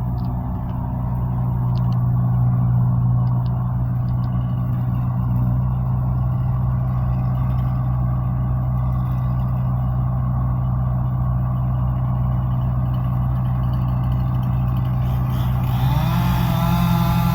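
An engine running steadily at a constant speed, then speeding up with a rising pitch near the end.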